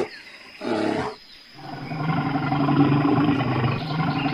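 Bear growling and roaring: a short call about half a second in, then a long, low drawn-out roar starting about a second and a half in.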